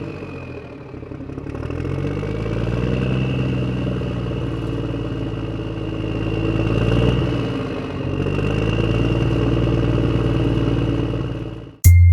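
Motor of a home-built miniature tractor running steadily with a faint high whine, its pitch rising about two seconds in and dipping briefly near the eight-second mark as the load changes. Loud music cuts in at the very end.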